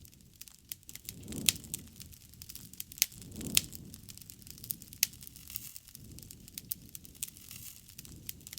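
Wood bonfire burning: a steady crackle of small snaps with a few sharp, louder pops, and now and then a low rush of flame.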